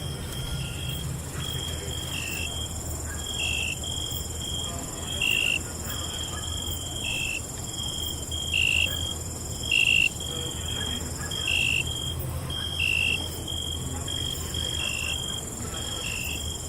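Night insect chorus: crickets chirping, one in a repeating two-part chirp, higher then a little lower, about every second and a half, over a steady high-pitched trill and a low rumble.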